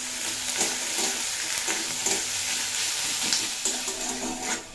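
Sliced onion, ginger, garlic and green chillies sizzling in hot mustard oil in a metal kadai, stirred with a metal spatula. The sizzle is steady and drops down near the end.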